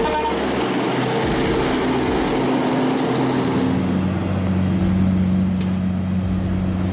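Heavy vehicle engine running steadily under a wash of noise, its pitch stepping up about three and a half seconds in.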